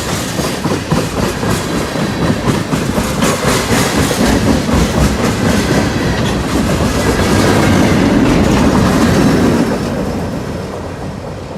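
Freight cars rolling past close by with a steady clickety-clack of wheels over the rails, loudest about eight to nine seconds in and then easing off near the end.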